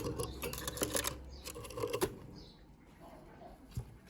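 Budgerigar chicks shuffling in the nest box: scratchy rustling and small clicks that die down after about two seconds.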